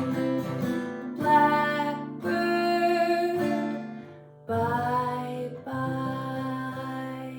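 Acoustic guitar playing a slow run of chords, one struck about every second and each left to ring.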